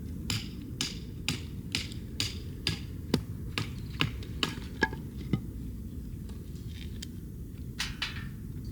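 A run of sharp knocks, about two a second, with two or three more near the end.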